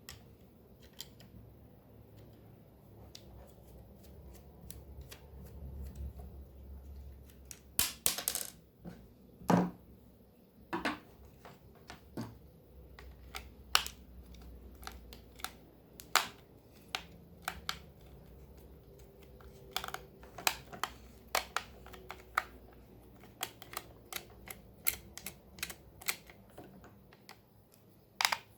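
Irregular sharp clicks and light knocks of a hair clipper's small plastic parts being handled and worked on, more frequent in the second half, over a faint low hum.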